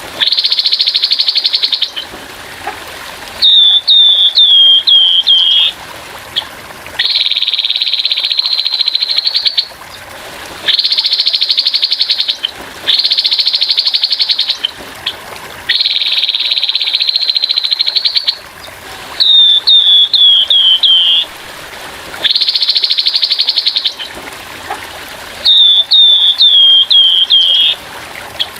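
Grey-headed babbler giving harsh calls over and over: long buzzy rattles of two to three seconds alternate with quick runs of five or six short falling notes. Trickling water runs underneath.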